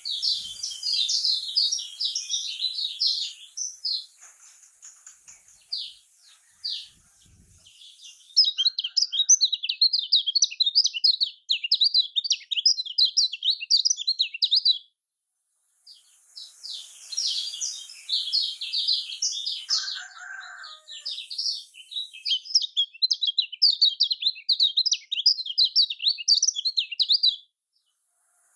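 Kecial kuning, a small Lombok white-eye, singing in long, fast runs of high, tightly packed chattering notes, with a couple of short pauses between runs.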